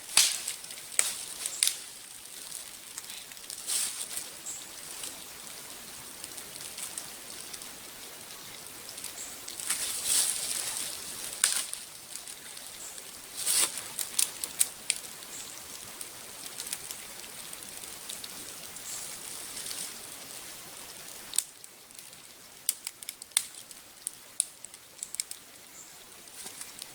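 Dried beef, bacon and onion sizzling in a frying pan over a campfire: a steady hiss with scattered pops and crackles, the hiss dropping a little about 21 seconds in.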